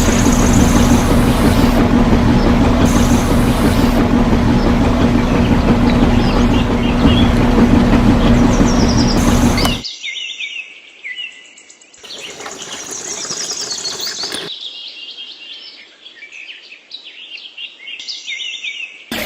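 A small motor running with a steady hum, with birds chirping over it. The motor cuts off abruptly about ten seconds in, leaving high birds' chirps and twitters.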